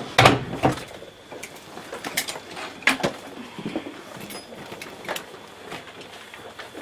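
Irregular sharp clicks and knocks from plastic cabin fittings, several close together near the start and a few more spread out later, over a faint steady high-pitched hum.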